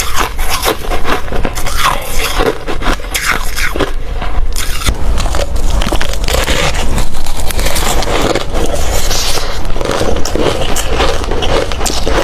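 A person chewing hard ice: continuous crunching and cracking as the ice is bitten and ground between the teeth.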